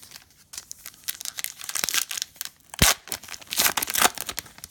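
A plastic trading-card pack wrapper crinkling and tearing as a card pack is opened and handled, with a sharp snap a little under three seconds in.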